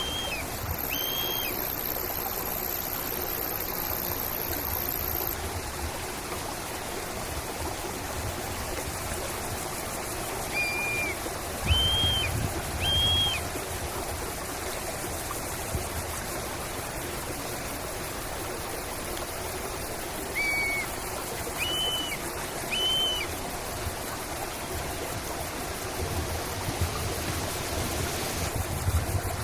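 A stream running steadily, with a bird giving short whistled notes in groups of three, about every ten seconds. A thin high whine sounds for a few seconds near the start.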